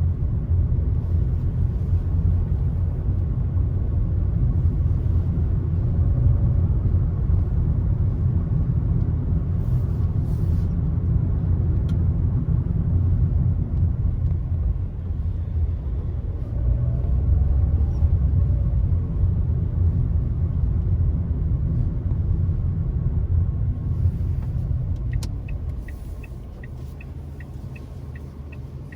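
Car driving along, a steady low road and tyre rumble that eases off near the end as the car slows. Then a regular light ticking, about two a second, starts.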